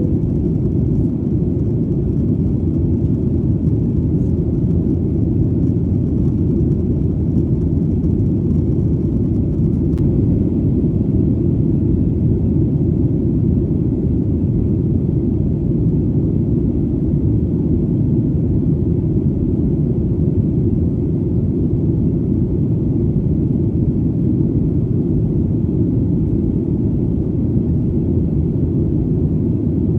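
Airplane in flight heard as a deep, even rumble that does not rise or fall.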